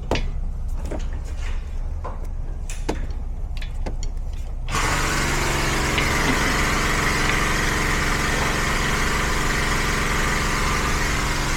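Car engine running steadily with a few clicks; about five seconds in, a louder steady rushing noise starts suddenly, with a high ringing band in it.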